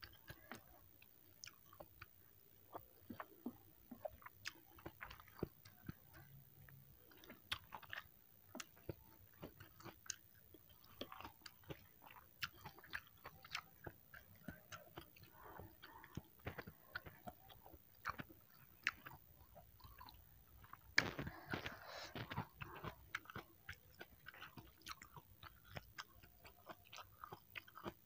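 Close-miked chewing of soupy fried instant noodles, with many small wet clicks and mouth smacks; a brief louder noisy burst comes about two-thirds of the way through.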